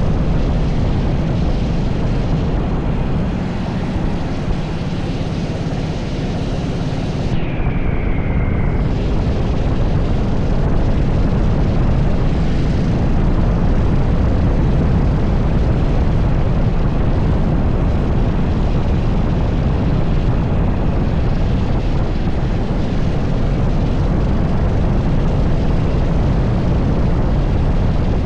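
80cc go-kart engine running hard on a lap, buried in heavy wind rush on the microphone. A brief falling whine about seven to eight seconds in.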